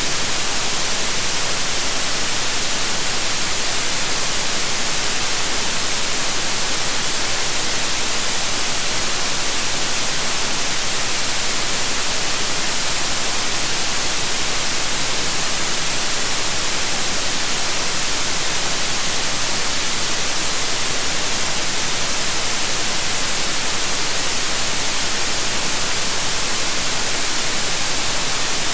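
Steady white noise: an even, unchanging hiss with its energy mostly in the high range.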